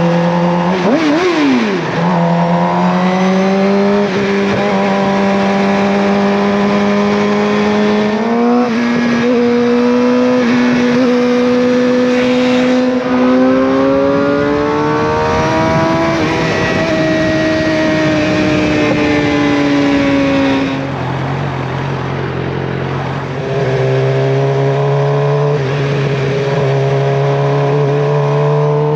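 Suzuki GSX-R750 sport bike's inline-four engine under way, its pitch rising and stepping with throttle and gear changes. Near the two-thirds mark the engine note drops lower, then climbs again. Wind and road noise rush under it throughout.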